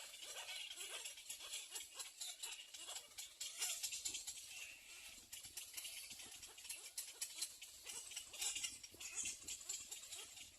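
Little egret chicks calling in the nest: a fast, irregular run of dry clicking and ticking notes.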